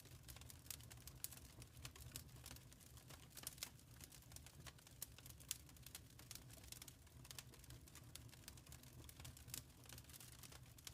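Wood fire crackling in a fireplace: irregular sharp pops and snaps, some louder than others, over a soft low rumble of the burning fire.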